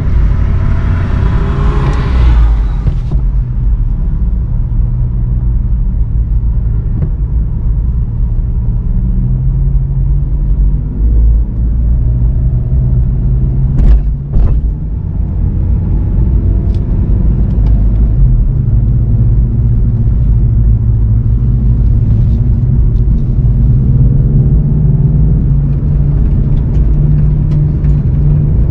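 VW Golf 7 GTI TCR's turbocharged four-cylinder engine running at low revs as the car creeps along, heard from on board, with two sharp clicks about halfway through. Near the end the revs rise as the car picks up speed.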